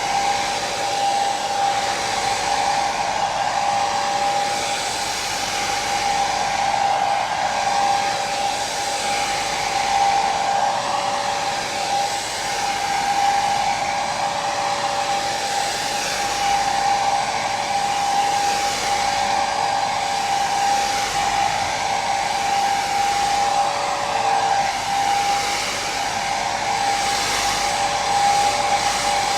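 Hair dryer running steadily, a continuous rush of air with a steady motor whine held on one pitch, played as white noise for sleep.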